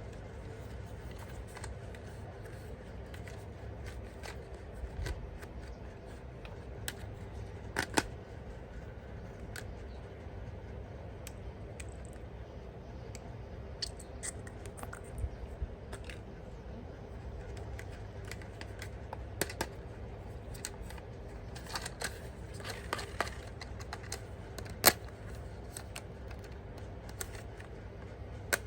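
Scattered sharp clicks and light handling noises from toy parts and packaging being handled during unboxing, over a steady low hum.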